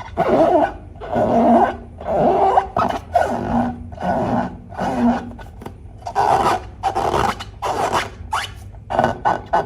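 Slime being worked and mixed, a run of irregular rubbing, scraping strokes about one a second.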